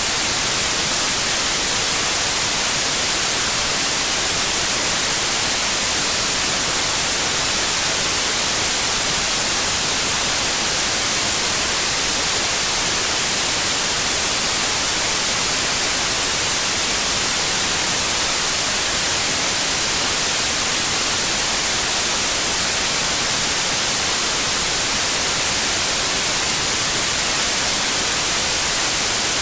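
Steady, continuous white noise: an even hiss, bright in the highs, with no changes in level.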